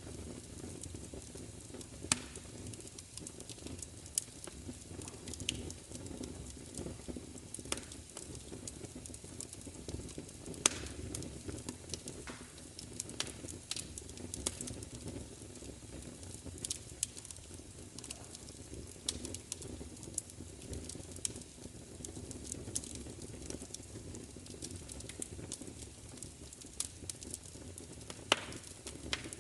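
Fire crackling, with a steady low rumble and sharp pops scattered irregularly through it, the loudest about 2, 10.5 and 28 seconds in.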